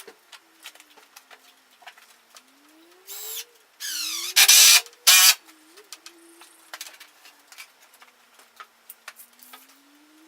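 Woodworking sounds on a timber frame: scattered light clicks and knocks, with a few short whirring bursts three to five seconds in, the last two the loudest.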